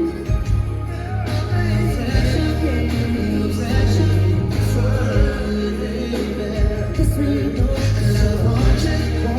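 Live R&B band playing with a male lead singer, heavy bass and drums, recorded from the audience.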